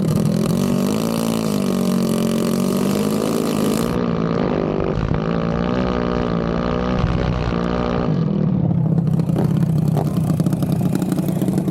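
An engine running and revving, its pitch wavering up and down, turning rougher and noisier from about eight seconds in.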